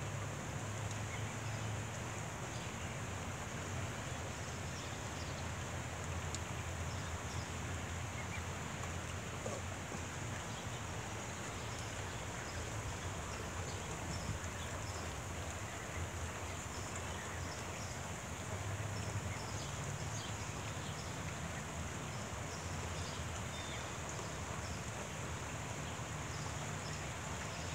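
Steady hiss of light rain falling outdoors, with a low steady rumble underneath and a few faint short high ticks.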